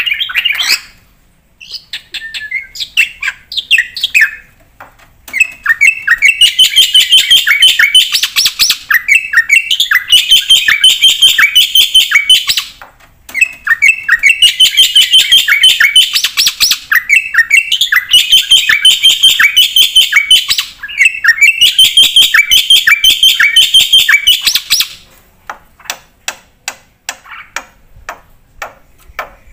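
Black-winged starling (jalak putih) singing a loud, fast chattering song in long runs of rapid repeated notes, broken by short pauses. Scattered chirps come before the runs, and near the end the song thins to sparse ticks.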